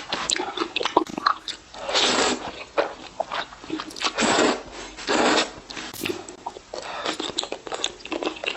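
Close-miked eating: bites, crunching and chewing.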